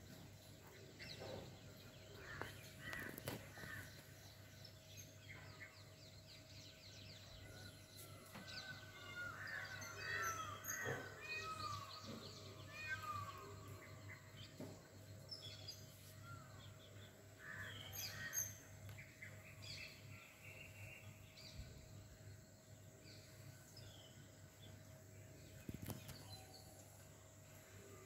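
Several birds chirping and calling outdoors, with a busy run of calls in the middle, over a faint steady low hum.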